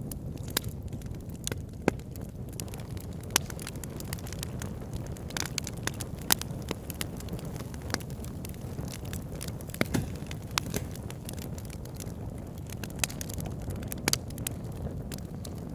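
Wood fire burning in a fireplace: irregular sharp crackles and pops every second or so over a low, steady rumble of the flames.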